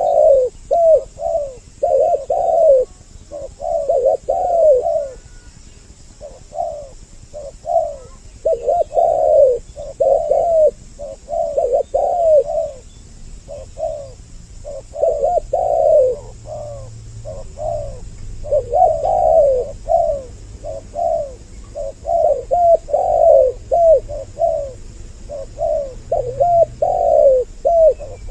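Spotted doves (tekukur) cooing in repeated runs of short coos separated by brief pauses, from a bird-lure recording meant to draw doves in.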